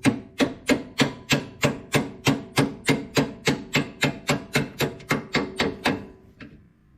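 Hammer striking a pin punch in quick, even blows, about three a second, each with a short metallic ring, driving a steel roll pin out of the shuttle shift shaft; the pin is almost out. The hammering stops about six seconds in.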